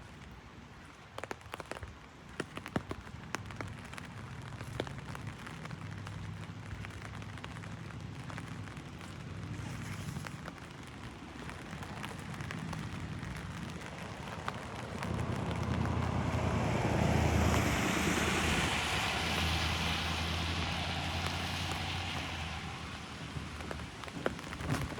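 Heavy rain pattering on an umbrella, with many sharp drops ticking on the canopy. In the second half a low rumble of distant thunder swells up, becomes the loudest sound, then eases off.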